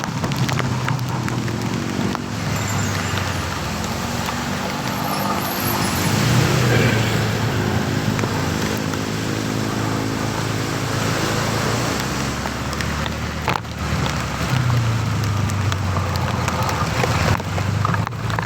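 Road traffic: vehicle engines running nearby over steady road noise, their pitch shifting as they idle and pull away.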